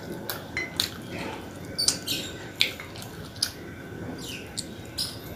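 Close-up eating sounds of a person chewing fish-head meat: wet chewing with irregular lip smacks and mouth clicks.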